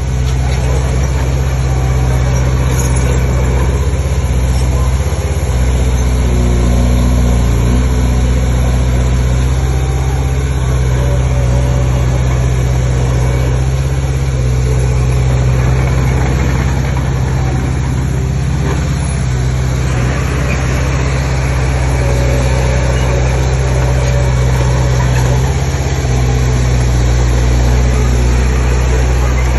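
Heavy earthmoving machine's diesel engine running steadily with a deep drone, its pitch shifting slightly now and then.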